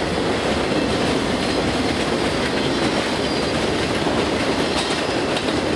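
Canadian Pacific train rolling past at track side: a steady rumble of cars with rapid, irregular clatter from the wheels on the rails.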